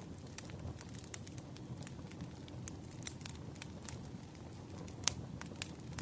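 Wood fire crackling: irregular pops and snaps over a low steady rumble, with one sharper pop about five seconds in.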